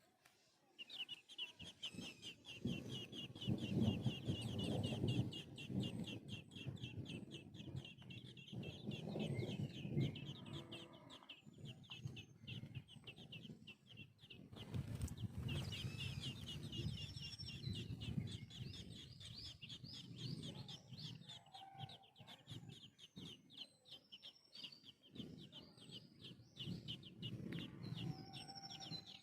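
Birds calling: a dense, fast run of high chirps throughout, with louder, lower sounds coming and going in bursts.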